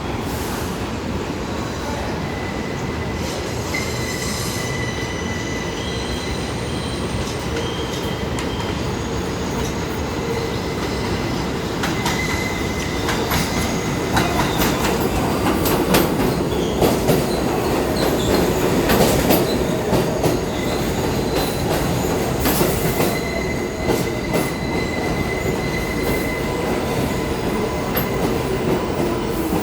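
New York City subway train running through the station, its steel wheels squealing in high, steady tones with a clatter of clicks over the rail joints. It gets louder about halfway through as the cars come closer.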